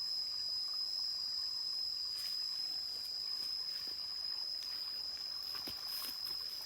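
A steady, unbroken high-pitched insect drone over the rush of a forest stream.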